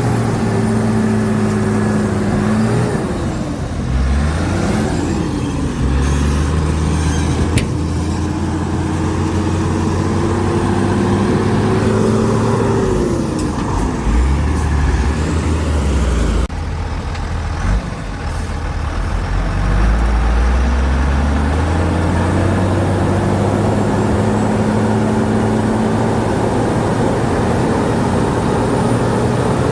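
Heavy diesel engine of earthmoving machinery running under load, its speed dropping and climbing again several times, with one sharp click about seven and a half seconds in.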